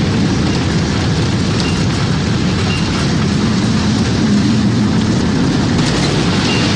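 Tornado wind rumbling, a dense, steady low rumble with a lighter hiss above it.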